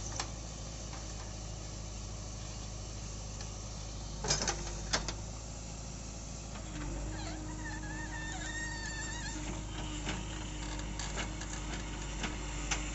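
Diesel engine of a JCB backhoe loader running while it loads soil into a tractor trolley, with a few sharp clanks about four to five seconds in and a steady hum that comes in about seven seconds in.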